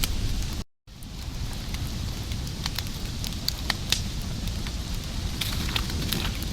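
Fire crackling: scattered sharp pops and snaps over a steady hiss. The sound cuts out completely for a moment under a second in, then resumes.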